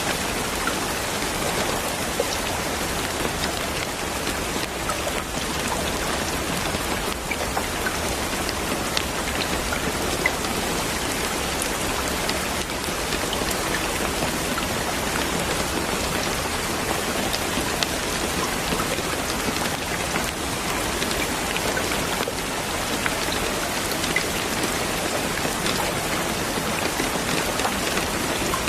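Steady rainfall, a continuous even hiss with scattered individual drop ticks.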